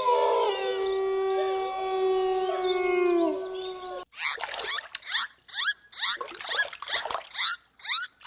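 Several dogs howling together in long, overlapping, steady-pitched howls that sag in pitch and fade about three to four seconds in. A run of short, high-pitched animal calls follows, about two a second.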